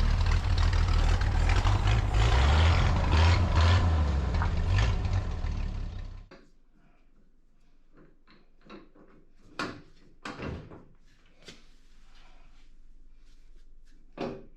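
Car engine running with a loud, low rumble that cuts off abruptly about six seconds in. After that, a few scattered sharp knocks and clunks.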